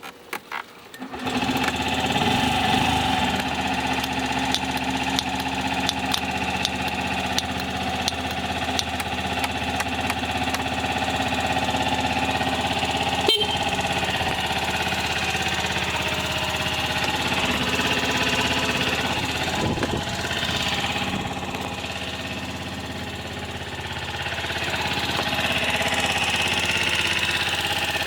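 Honda Gyro Canopy's 50 cc four-stroke single-cylinder scooter engine starting about a second in and then running steadily at idle, rising and falling a little in level. A single sharp click about halfway through.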